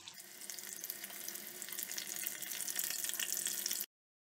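Breadcrumb-coated potato cheese triangles shallow-frying in hot oil in a steel pan on medium heat: a steady crackling sizzle that grows louder toward the end, then cuts off suddenly.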